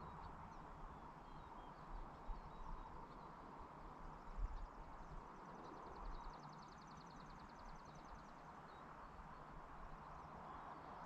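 Faint open-country evening ambience: a steady soft hiss of background noise with a few dull low thumps. A high, rapid, evenly pulsed trill from an insect or bird runs from about four seconds in to about eight seconds.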